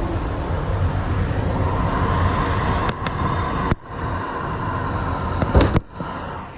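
New York subway car (Kawasaki R62) running on the rails: a steady rumble of wheels and track. A thin steady whine runs for about two seconds in the middle, and the sound drops out sharply twice, briefly, in the second half.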